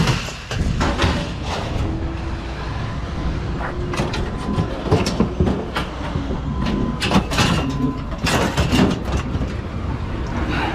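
Scrap metal being handled: repeated metallic clanks, knocks and scraping over a steady low rumble.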